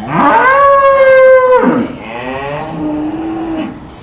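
Cattle mooing: one long, loud bawl that rises, holds and falls, followed about two seconds in by a quieter, lower moo.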